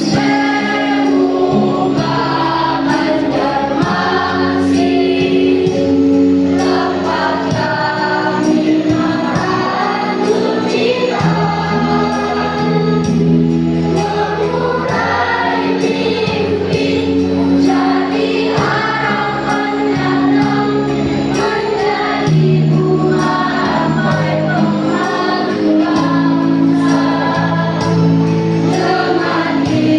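School choir singing a song in parts over held accompaniment chords, with the notes changing every few seconds.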